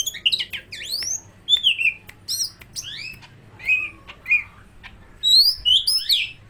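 Cucak ijo (green leafbird) singing a fast, varied run of short whistled notes that sweep up and down, a song that mimics the oriental magpie-robin (kacer).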